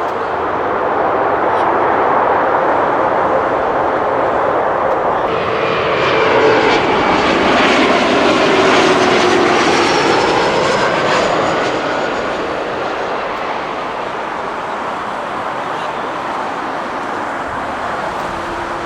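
Jet airliner flying past on its landing approach. The engine rush swells to its loudest around the middle, with whining tones that drop in pitch as it passes, then dies down to a steadier rumble.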